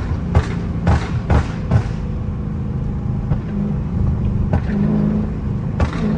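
Dodge Charger 392's 6.4-litre HEMI V8 running through its exhaust while driving, the drone rising and falling with the throttle. Several sharp exhaust pops come in the first two seconds and again near the end, typical of the car's pop tune.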